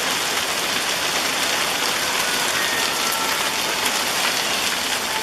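Hailstorm: hail and heavy rain pelting down steadily, a dense continuous hiss of impacts with faint individual ticks.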